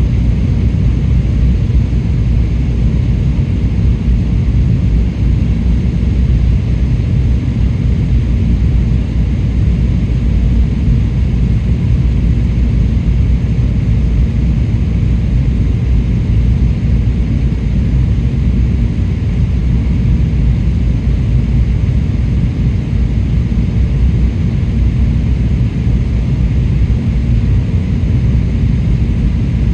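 Steady cabin noise of a jet airliner in flight: an even, deep rumble of engines and airflow with no change.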